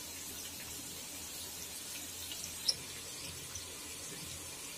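Sliced onions sizzling gently in oil over a low gas flame: a steady soft hiss with a few faint pops, one a little louder about two and a half seconds in.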